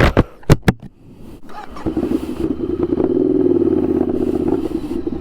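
Ducati Scrambler 800's air-cooled L-twin engine running steadily through a baffle-less Arrow titanium exhaust. It comes in about two seconds in and grows a little louder before holding. A few sharp knocks sound right at the start.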